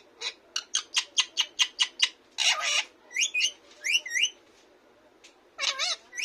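Pet parrot calling: a quick run of about ten short chattering notes, then a harsh squawk, then a few rising whistled chirps, and one more call near the end.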